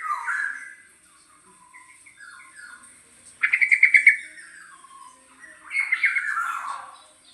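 Young oriole practising its calls: soft, scattered notes, then a loud quick run of about eight notes midway, and a harsh call that slides downward near the end.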